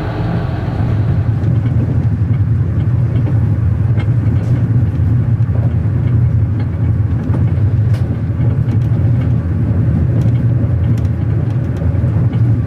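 Passenger train running, a steady low rumble with faint scattered clicks and knocks over it.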